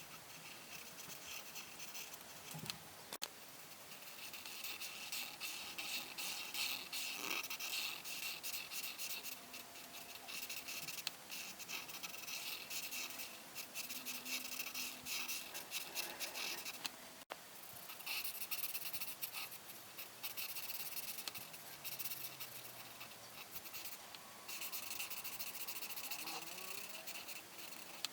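Coloring pen or pencil scratching back and forth on paper in quick, dense strokes, with a few short pauses.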